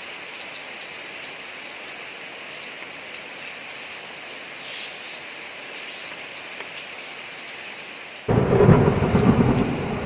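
Steady rain falling on a street, then a sudden loud thunderclap about eight seconds in that keeps rumbling.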